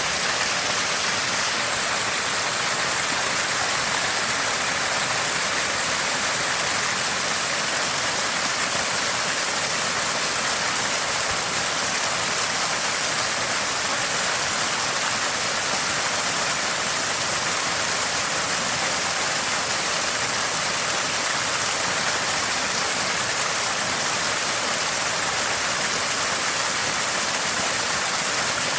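Water gushing from a small spring and gurgling steadily.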